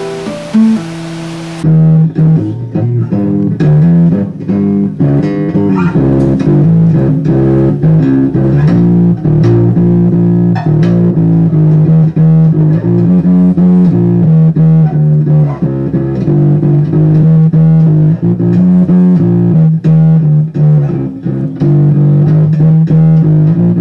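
Bass guitar played with plucked notes in a steady groove. Before it, a strummed acoustic guitar breaks off abruptly about two seconds in.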